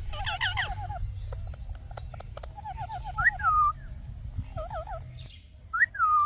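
Parrot chirping and warbling in runs of quick rippling notes, with two louder calls that rise sharply and fall away, one midway and one near the end.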